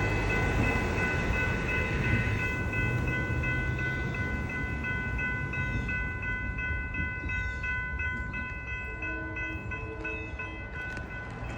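A Metro-North commuter train rumbling through a grade crossing, fading as it goes, while the crossing-signal bell rings in rapid, evenly spaced strikes that stop near the end.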